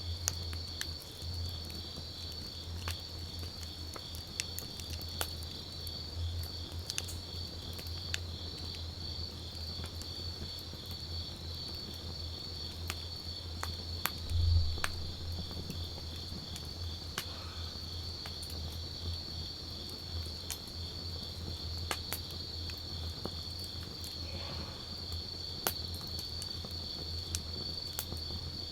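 Wood campfire crackling, with scattered sharp pops and one louder low thump about halfway, over a steady high pulsing chirr of insects.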